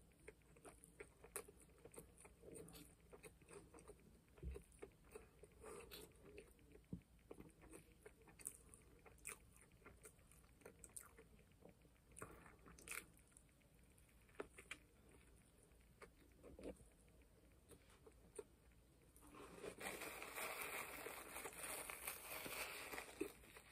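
Close-up biting and chewing of a McGangBang burger, with many small wet mouth clicks. Near the end a paper napkin rubs and crinkles against the mouth.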